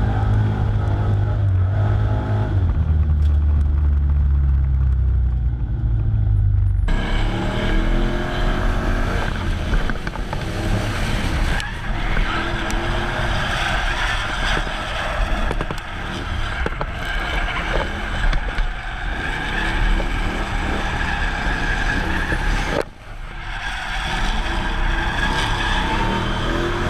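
LS2 V8 engine of a drift truck running hard, its pitch rising and falling with the revs, with tyres sliding and squealing from about seven seconds in. Near the end the sound drops off briefly, then picks up again.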